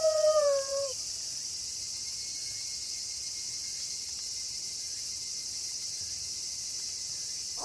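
A wolf's howl glides down in pitch and dies out about a second in, leaving a steady, high-pitched chorus of night crickets.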